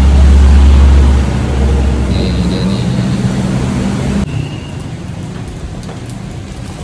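Street traffic: a motor vehicle's engine running close by with a heavy low rumble, loudest in the first second or so. About four seconds in it drops suddenly to quieter, steady traffic noise.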